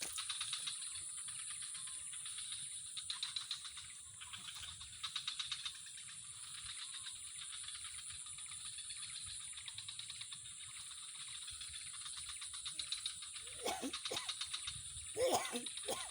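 Insects trilling in a steady chorus of very fast pulses, with a few short lower calls or voice-like sounds about three quarters of the way through and near the end.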